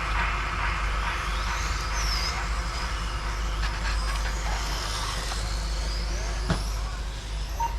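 Large-scale 1:5 RC superbikes running on the track, a steady motor noise with high whines that rise and fall in pitch as the bikes speed up and slow down.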